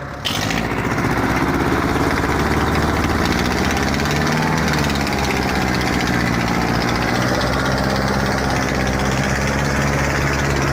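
Tractor diesel engine running loud and steady, starting abruptly just after the beginning, with a slight dip and rise in pitch about four seconds in.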